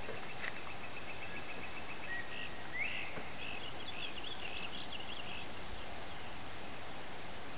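Birds calling at dawn over a steady background hiss: a quick run of evenly repeated high notes, then a single rising note and a burst of chattering notes.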